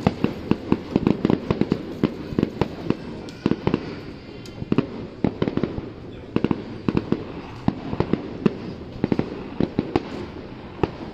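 Fireworks exploding in a fast, irregular string of sharp bangs, several a second, easing off briefly around the middle before picking up again.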